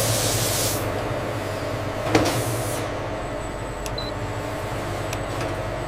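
Factory machinery running with a steady hum, with a burst of hiss in the first second and a single sharp clack about two seconds in.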